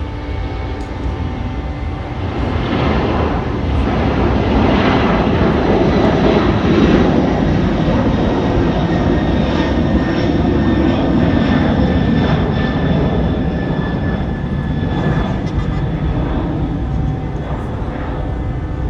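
Boeing 747 jet engines running at low power: a steady turbine whine over a deep rumble that swells a few seconds in and eases slightly toward the end.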